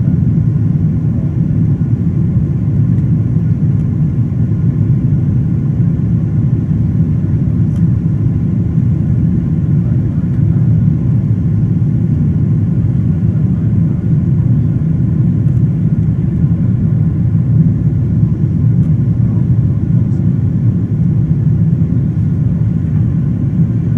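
Steady low rumble inside the cabin of a Boeing 777-200ER in flight: engine and airflow noise from its Rolls-Royce Trent 800-series engines.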